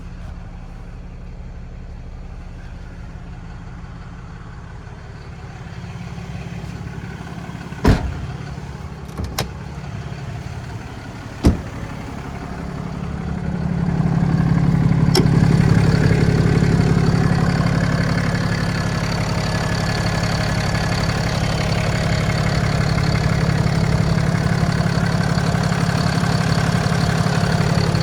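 Ram 5500 truck engine idling with a steady low rumble. A few sharp knocks come a third of the way through, and about halfway through the engine grows louder and holds there.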